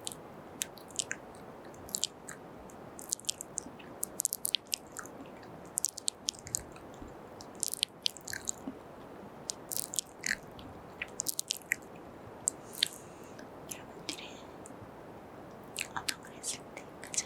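Close-miked ASMR mouth sounds: many wet kisses, lip smacks and mouth clicks in irregular clusters, over a faint steady hiss.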